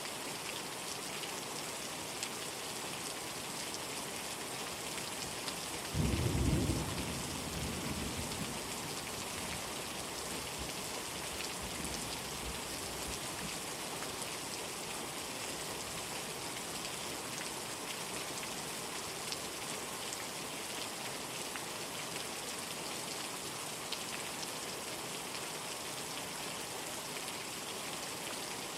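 Steady heavy rain. About six seconds in, a sudden clap of thunder rumbles low and dies away over a few seconds.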